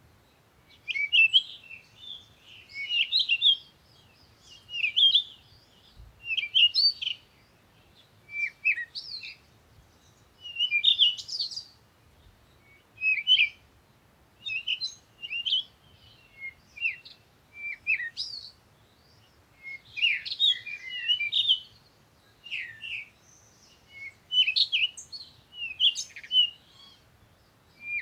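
Songbirds singing and chirping in short bursts every second or two, high-pitched phrases with gaps between them.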